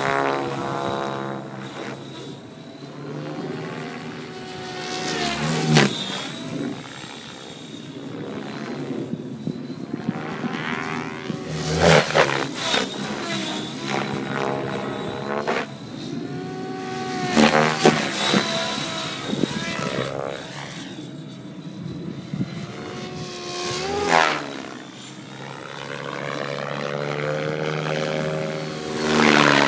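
Align T-Rex 700E electric RC helicopter with an 800MX motor flying repeated passes. The whine of rotors and motor swells and fades about every six seconds, its pitch sliding down after each close pass.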